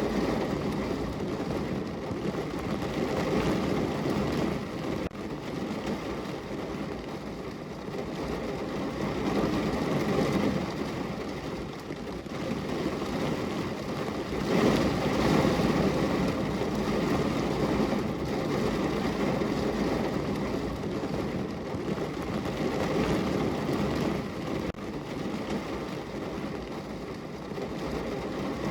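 Heavy rain falling on a car's roof, heard from inside the cabin: a dense, even patter that swells and eases every few seconds.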